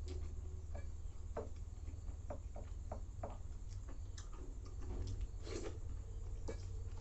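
Eating sounds of milk-soaked chuda (flattened rice) with potato curry: a string of small wet clicks and smacks at irregular intervals, over a steady low hum.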